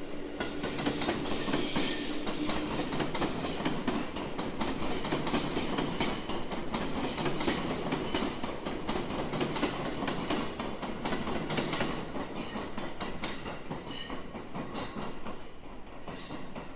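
Electric multiple-unit train passing close by, its wheels clicking over rail joints with some wheel squeal, and a steady tone in the first few seconds; the sound eases slightly near the end.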